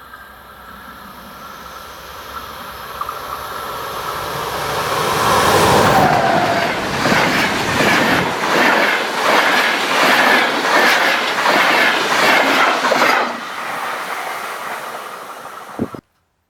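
A train passing close by on the main line. The rumble builds for several seconds to a peak about six seconds in, with a falling whine as the locomotive goes by. A regular clickety-clack of wheelsets over the rails follows for about five seconds, then it drops to a quieter rumble that cuts off suddenly near the end.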